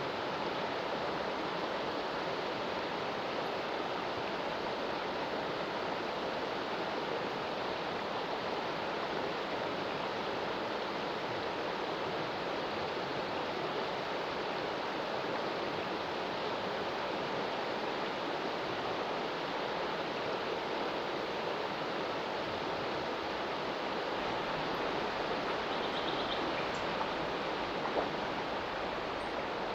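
Stream running high after heavy rain, its water rushing with a steady, unbroken noise.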